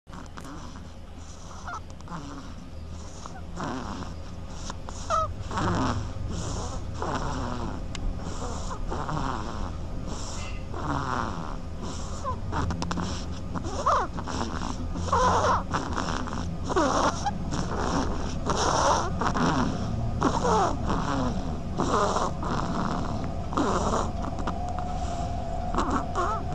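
An animal making repeated raspy, hissing, snore-like sounds, roughly one a second.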